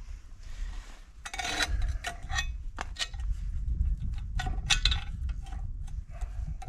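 Irregular metal clinks and knocks, some ringing briefly, as tools and bolts are handled.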